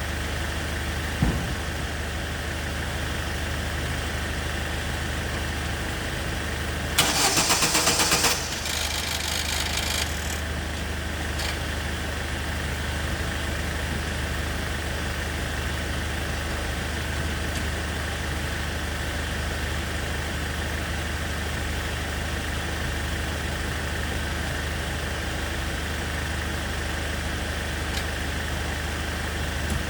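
Starter motor of a 2006 Opel Zafira cranking briefly, a loud rapid rattle lasting about a second and a half about seven seconds in, after a single click about a second in. The starter works only on and off, which the mechanic takes for a faulty starter motor. A steady engine hum runs underneath.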